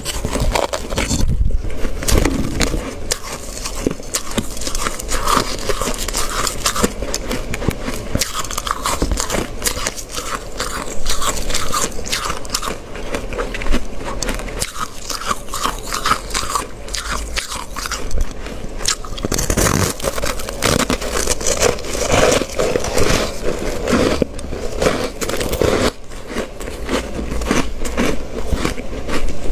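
Ice being bitten and chewed close to the microphone: a dense, continuous run of crisp crunches. It grows louder and fuller about two-thirds of the way through.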